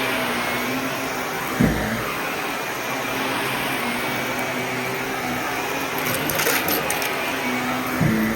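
Vacuum cleaner running steadily with a low hum, with two dull thumps, one about two seconds in and one near the end, and a brief crackling rattle in between.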